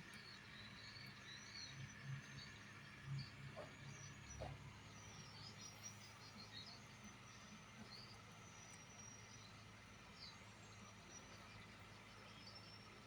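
Near silence: faint outdoor background with scattered short high chirps over a low steady hum.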